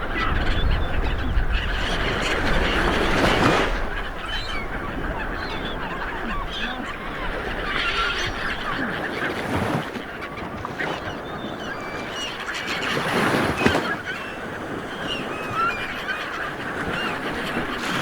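Sea waves surging and breaking on a shore, swelling about every five seconds, with many short bird calls over the surf.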